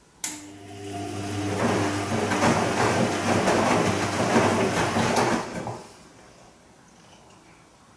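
Bosch Serie 2 VarioPerfect washing machine turning its drum in one short burst on the gentle Silk programme. The motor starts suddenly with a hum, and the wet laundry tumbles and sloshes for about five seconds before the drum stops.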